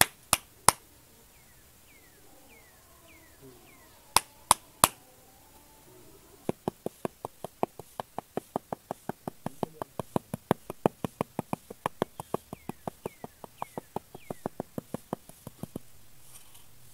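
A small metal hand trowel slapping a bed of sand to pat it flat: a few separate sharp slaps, then from about six seconds in a fast even run of them at about four a second that stops shortly before the end.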